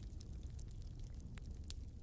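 Wood fire crackling in a fireplace: scattered sharp snaps and pops over a steady low rumble of the burning fire.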